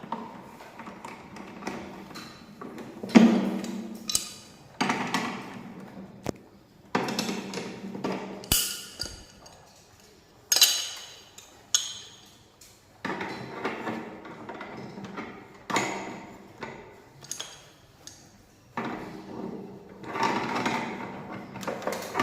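Irregular knocks and clattering from tools and parts being handled during air conditioner repair work, each knock sharp with a short ringing tail, with rustling and scraping between them.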